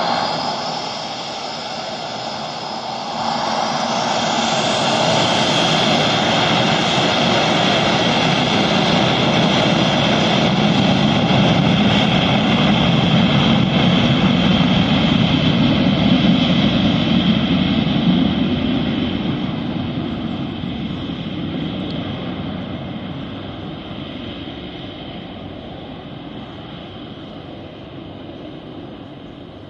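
Jet airliner's engines, a rushing roar with a high whine, building up a few seconds in with a rising whine, staying loud for a long stretch, then slowly fading away as the plane moves off.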